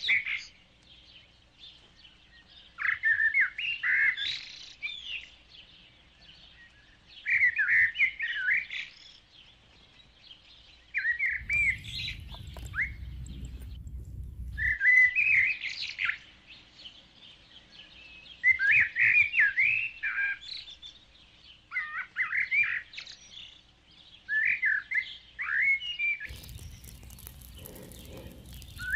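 A songbird singing short phrases of quick warbling chirps, one every few seconds. A low rumble comes in twice, midway and near the end.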